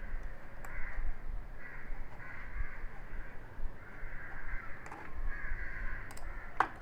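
Crows cawing repeatedly in the background, with a few sharp mouse clicks.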